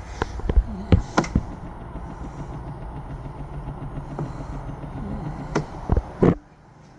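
An engine running steadily at idle, with sharp knocks and clicks over it. The sound drops away abruptly near the end.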